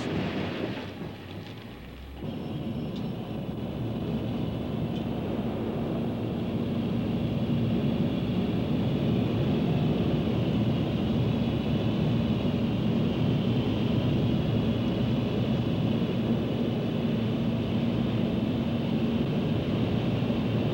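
Steady, loud mechanical noise like heavy machinery running, swelling about two seconds in and then holding level.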